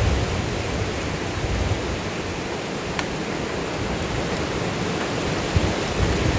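Heavy rain falling in forest, a steady even hiss, with wind gusting against the microphone at the start and again near the end.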